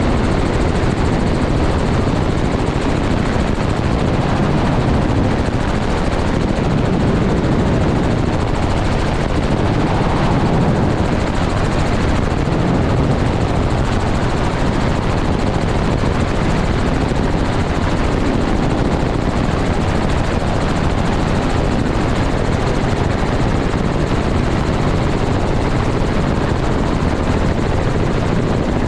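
Helicopter engine and rotor noise, steady and loud.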